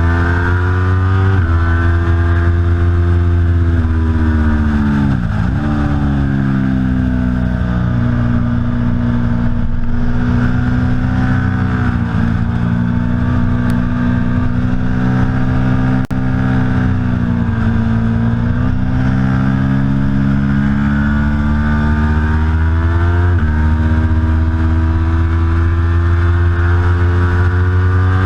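Aprilia Tuono V4 Factory's V4 engine pulling hard at racing speed. Its pitch climbs and steps at gear changes, dips sharply about five seconds in as it drops off and is blipped down, then climbs again, with further dips around twelve and eighteen seconds.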